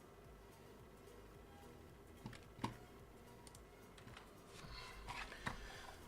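Quiet room tone with a few faint, irregular clicks and some light rustling handling noise in the second half.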